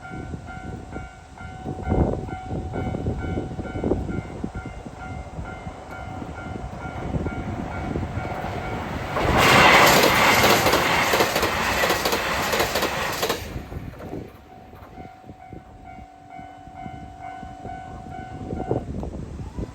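Japanese level-crossing bells ringing in a steady pulsing rhythm while a HOT7000-series diesel express train passes, its wheels clattering over the rail joints. The train is loudest for about four seconds in the middle, drowning the bells. The bells ring on after it and stop shortly before the end.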